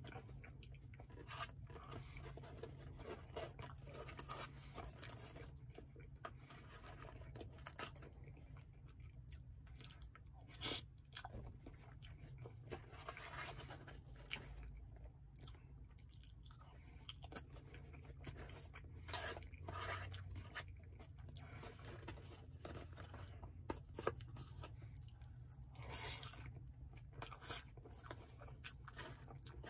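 A person chewing mouthfuls of chili cheese fries close to the microphone, with scattered short clicks and smacks.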